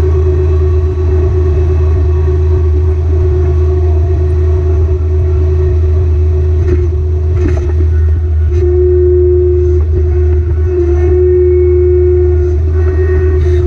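Kubota BX sub-compact tractor's three-cylinder diesel engine running steadily under work, with a steady high tone over the engine that grows stronger about two-thirds of the way through. A few short knocks sound in the middle.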